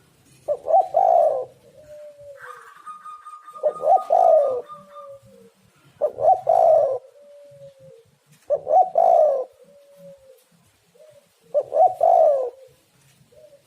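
Spotted dove (tekukur) cooing: five repeated song phrases about every three seconds, each a quick cluster of coo notes ending in a drawn-out falling note.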